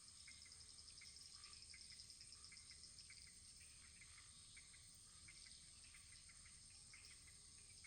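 Faint crackling of a wood fire: small, irregular pops over a steady, high, fast-pulsing hiss.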